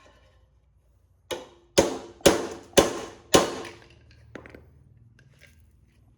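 Five hard hammer blows on a steel chisel against metal, about two a second, each with a short metallic ring, chiseling off a stuck screw. A few lighter knocks follow.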